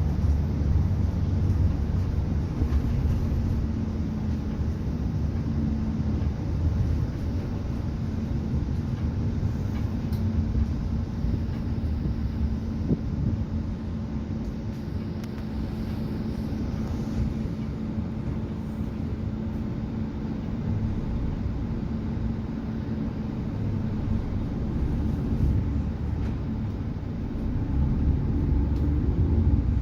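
Express bus driving at speed, heard from inside the passenger cabin: a steady low engine and road rumble with a constant hum.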